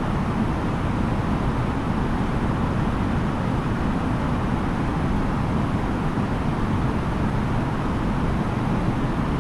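Steady cabin noise of an Airbus A330-900neo airliner in flight: an even rumble of engines and airflow with no change in level.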